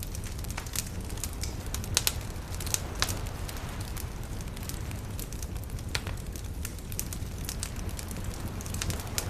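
Bonfire crackling with scattered sharp pops, the strongest about two and three seconds in and again near six seconds, over a steady low rush of waves.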